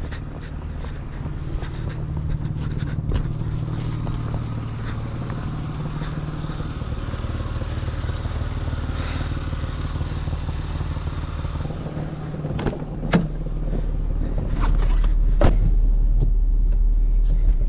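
BMW E39's engine running steadily at idle. About twelve seconds in it gives way to a deeper, louder rumble, with a few sharp clicks and knocks.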